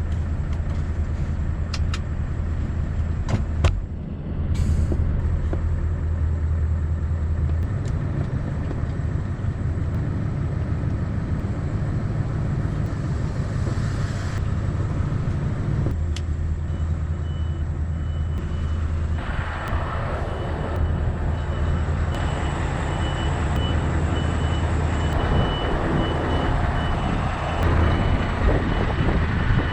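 Scania V8 truck engine running steadily, with a short air hiss about four seconds in. Past the middle, a reversing alarm starts beeping and the engine works harder as the truck backs up.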